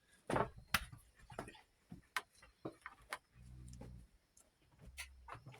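Faint, irregular sharp clicks and knocks, with a short low hum about three and a half seconds in.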